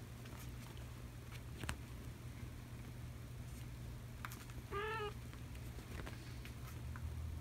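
A kitten gives one short, high meow about five seconds in, with faint scattered clicks and taps around it.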